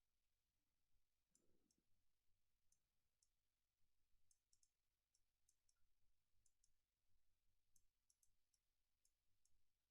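Near silence with faint, irregular small clicks scattered through, and one soft low bump about a second and a half in.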